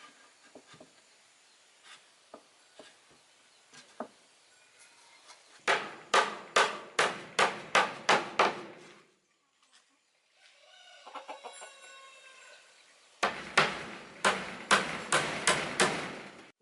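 Hammer driving nails into wood: two runs of about eight quick, ringing blows, roughly three a second. A chicken clucks briefly between the runs.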